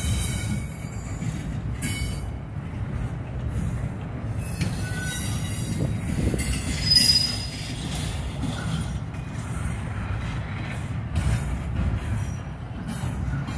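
Double-stack intermodal freight train rolling past: a steady rumble of wheels on rail with brief high-pitched squeals from the wheels, the loudest about seven seconds in.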